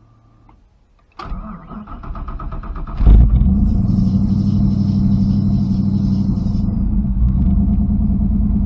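Fox-body Mustang engine cranking on the starter for about two seconds, then firing on the first try and settling into a steady idle. This is the first start with a newly fitted MSD Ultra 6A ignition box, added to cure hard starting.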